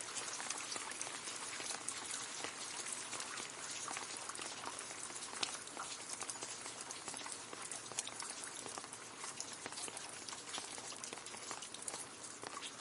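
Gentle rain falling on leaves: a steady patter with many separate drop ticks.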